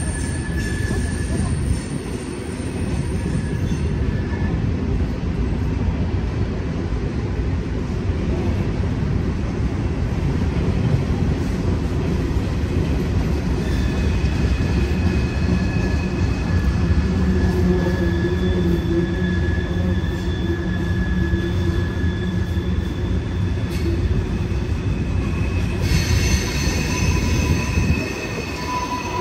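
Freight cars of a Norfolk Southern train (tank cars and covered hoppers) rolling steadily past with a continuous rumble of wheels on rail. High wheel squeal comes in about halfway through and returns stronger near the end.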